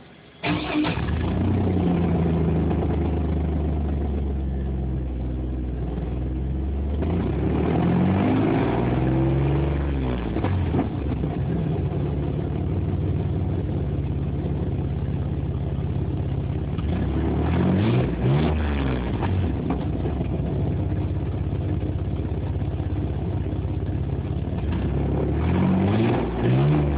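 2000 Chevy S10 ZR2's 4.3-litre Vortec V6 with its catalytic converters removed, heard through its exhaust: it starts up suddenly about half a second in, then idles steadily and is revved up and back down several times, around a third of the way in, past halfway and near the end. Recorded through a phone, so the sound is thin, with no high end.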